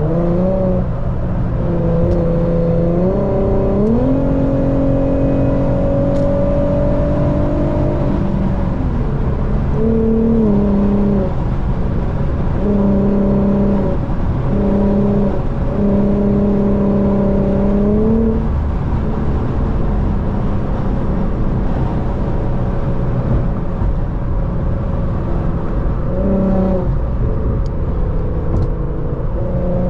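Car engine under hard highway driving, its drone rising in pitch around three to four seconds in, falling at about eight seconds, then cutting in and out several times as the throttle is worked.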